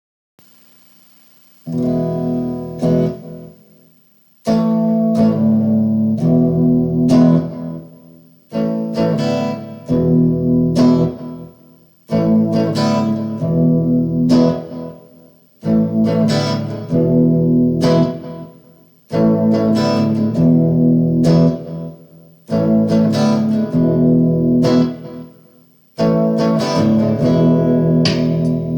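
Guitar playing a repeated chord phrase without singing. It starts about a second and a half in, and each phrase opens with sharp strums and dies away before the next begins, about every three and a half seconds.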